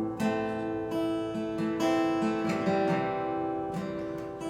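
Acoustic guitar strummed between sung lines, chords ringing out with a strum about every second.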